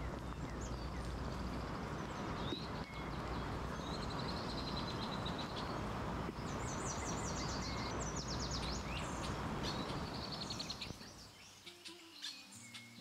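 Songbirds chirping and trilling in a forest, repeated high calls over a steady rushing noise. About eleven seconds in the rushing stops and soft background music comes in under the bird song.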